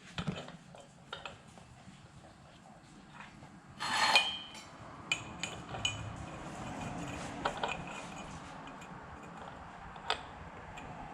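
Metal clinking and clanking as steel pipe pieces and tools are handled on a metal bench. A louder ringing clank comes about four seconds in, followed by several more ringing clinks, over a faint steady hiss.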